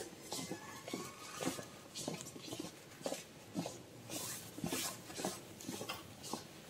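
Irregular soft knocks, shuffling and rustling, a few a second, like people moving about and stepping.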